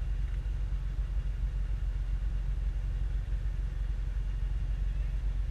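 Toyota Land Cruiser 120 rally car's engine idling steadily while the car stands still, heard from inside the cabin as a low, even hum.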